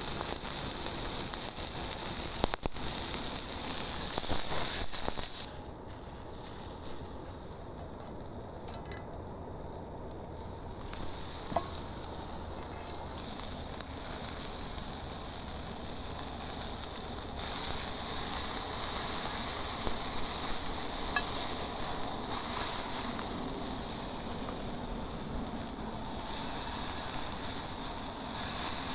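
Rump steak sizzling on a hot iron griddle over a campfire: a loud, dense hiss. It drops off sharply about six seconds in and builds back up over the following seconds.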